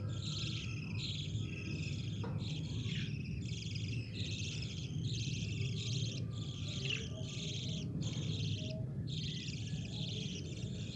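Budgerigars chattering and warbling continuously in dense bursts with brief gaps, over a low steady hum.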